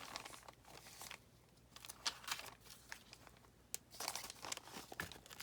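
Faint rustling of paper pages being handled and shifted into line, with a few small sharp ticks.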